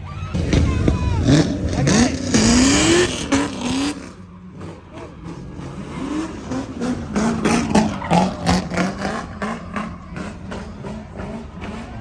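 A truck engine revving, its pitch climbing in several quick pulls during the first few seconds, then shorter blips of revs.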